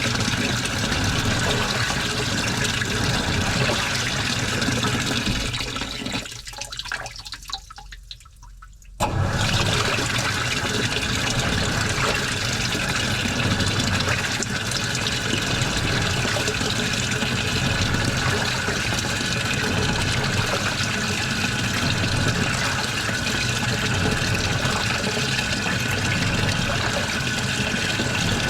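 Water rushing steadily in a washing machine during a wash. It fades away about six seconds in and cuts back in suddenly about three seconds later.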